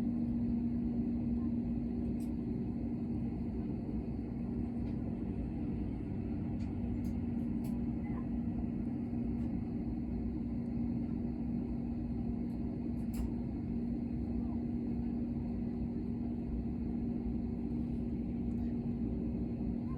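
Airliner cabin noise: the engines' steady drone with a strong, even low hum through it, unchanging in level.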